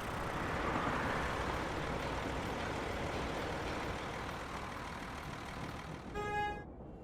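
Cartoon traffic noise: a steady rumble of car engines in a jam. Near the end comes one short car-horn honk.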